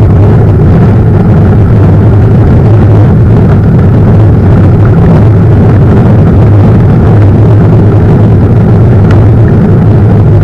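Loud, steady low rumble of wind buffeting the camera microphone while mountain biking, mixed with the noise of riding over the trail.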